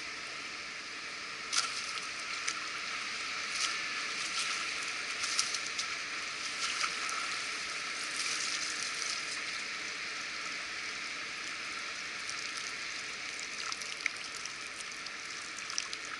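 Steady rush of water pouring over a river weir, with a few short sharp noises scattered through it.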